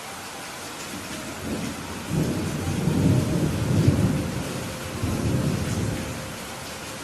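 Steady rain hissing, with a roll of low thunder rumbling in about a second and a half in. The thunder swells twice and dies away near the end.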